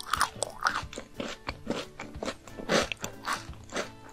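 A mouthful of chocolate being chewed close to the microphone: a steady run of wet, crunchy chews, a few a second.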